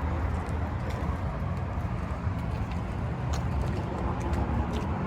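Car engine running with a steady low rumble, with a few faint light clicks over it.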